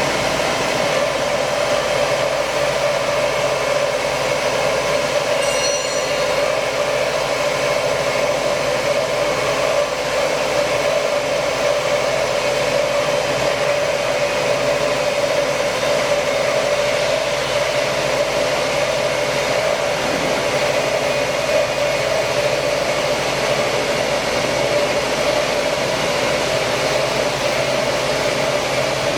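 KOTEC Diamond-1300DT industrial band sawing machine running steadily, its blade cutting through a steel H-beam: a loud, even machine drone with a strong mid-pitched hum, and a brief faint high squeal about six seconds in.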